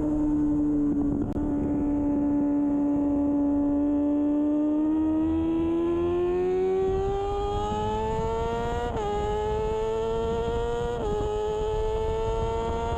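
2013 Kawasaki Ninja 636's inline-four engine at race pace: it holds a steady low note for the first few seconds, then climbs in pitch as the bike accelerates. Near the end come two quick upshifts about two seconds apart, each a short dip in pitch before the climb goes on.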